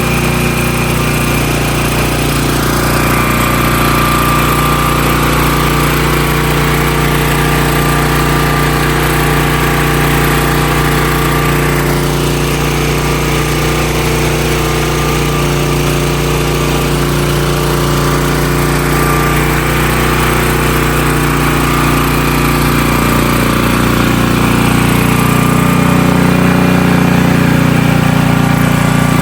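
The 16-horsepower gasoline engine of a Hotsy pressure washer running steadily. Its note shifts slightly and grows a little louder about three-quarters of the way through.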